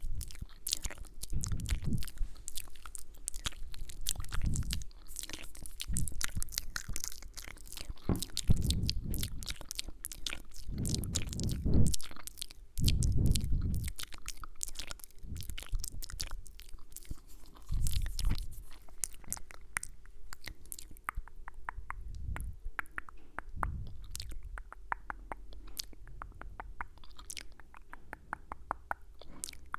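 Close-miked ASMR mouth sounds: rapid wet clicks and kissing sounds, with occasional low thuds, busier in the first part and thinning to fainter clicks later.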